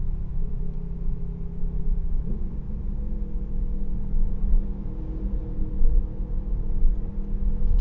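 Steady low rumble of a car driving, engine and tyre noise heard from inside the cabin with a steady low hum.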